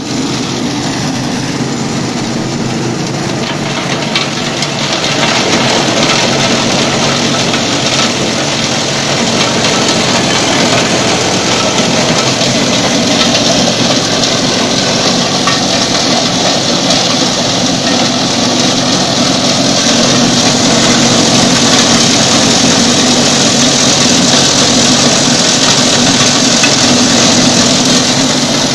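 Corn cob grinding machine running loudly and steadily, getting louder about five seconds in and again slightly around twenty seconds.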